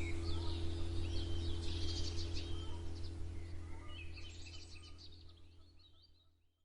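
Morning songbirds chirping and trilling over a steady low background rumble, the whole mix fading out steadily over the last few seconds to silence.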